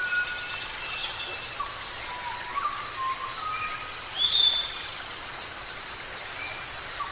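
Several birds chirping and whistling over one another in short notes, over a steady hiss, with one louder call about four seconds in.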